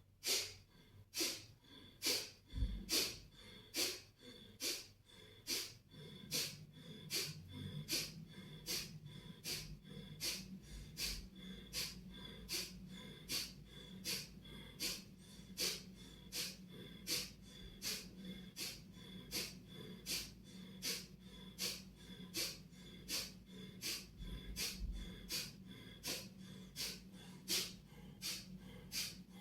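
Kapalabhati breathing: short, forceful exhalations pumped out through the nose by snapping in the belly, in a steady rhythm of about three every two seconds.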